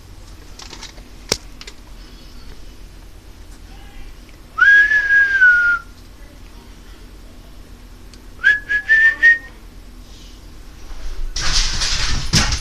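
A person whistling twice to call a dog: one held note that dips slightly, then a shorter rising one broken into pieces. Near the end, a burst of rustling and clattering.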